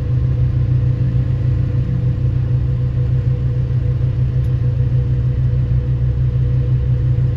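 Large diesel engine of a Hitachi mining excavator running steadily, a low even drone.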